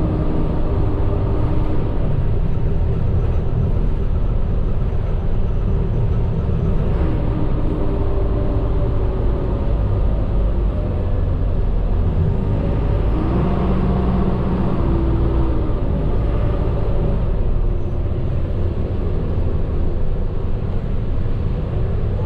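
Medium bus's diesel engine running under way with steady rumbling road noise, heard from inside the cabin; the engine note rises and falls partway through.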